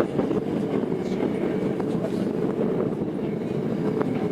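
Interior running noise of a Tokyo Metro 02 series subway car with IGBT VVVF traction, cruising between stations: a steady rumble of wheels on rail with a faint steady hum and occasional light clicks.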